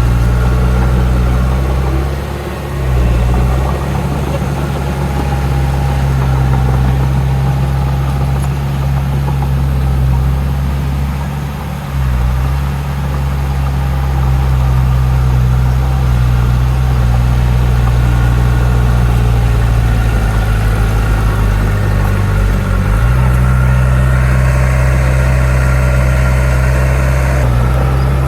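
Heavy diesel earthmoving machinery running with a steady low drone. The load eases briefly twice, and a higher whine joins for a few seconds near the end.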